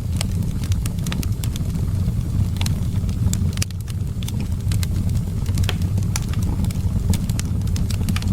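Wood fire crackling in a fireplace: frequent irregular sharp snaps and pops over a steady low rumble of wind.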